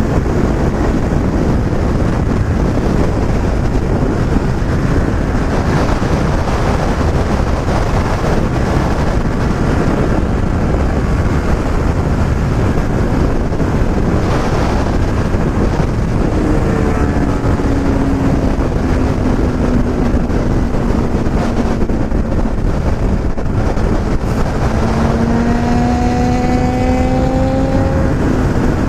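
Motorcycle ridden at road speed, heard from the rider's own microphone: heavy wind rush with the engine under it. About halfway through, the engine note comes through more clearly, sinking slowly as the bike eases off, then climbing again near the end as it accelerates.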